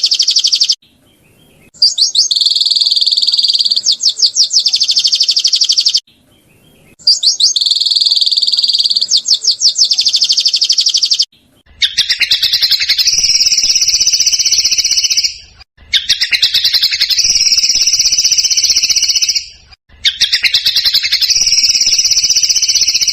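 Songbird tutor recording: loud, rapid, buzzy trilled song phrases about four seconds long, separated by short gaps. About halfway through, the phrase changes to a lower trill with two pitch bands.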